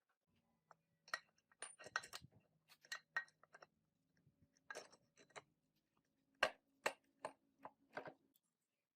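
Small metal gearbox parts being handled and set down: a string of light clinks and taps, in two bunches, over a faint steady hum.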